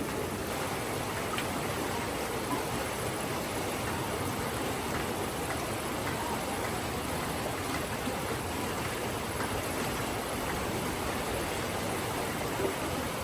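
Steady rushing of running water, an even noise with no change in level.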